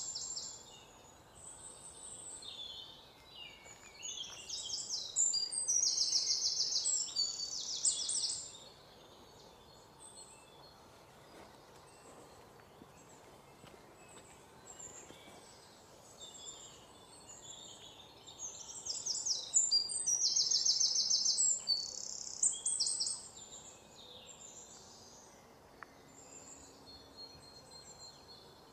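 Birds singing in the scrub in bouts of fast, high trilled phrases. The loudest bouts come about four seconds in and again around twenty seconds in, over a faint outdoor hiss.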